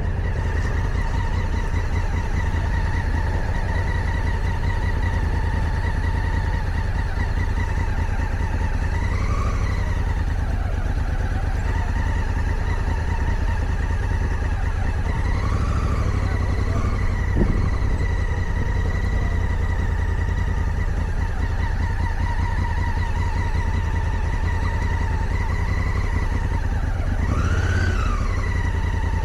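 Motorcycle engine running at low speed in town traffic, a steady rumble whose pitch rises and falls briefly three times. There is one short sharp click a little past halfway.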